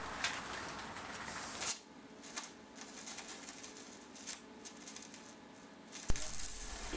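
Light metallic clicks and small rattles, sparse and faint, over a low background hiss.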